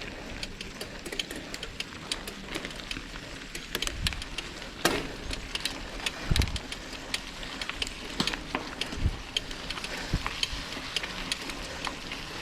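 Mountain bike being pushed on foot up a steep trail: a steady run of irregular clicks and rattles, with several heavier low thumps through the middle.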